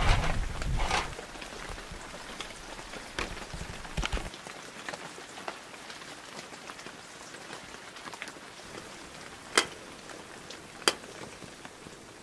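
Steady rain falling, with scattered drops tapping close by. In the first second an aluminium foil stove windscreen crinkles as it is set around a small camp kettle, and near the end there are two sharp ticks.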